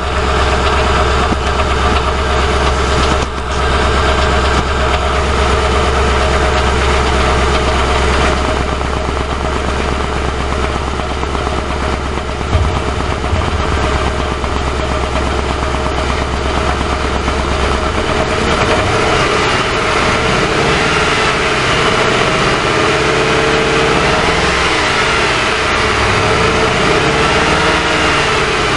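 Ford Crown Victoria Police Interceptor's 4.6-litre V8 idling roughly, picked up from on top of the radiator; the owner describes the engine as shivering at idle. About two-thirds through, the engine sound changes and its pitch wavers up and down.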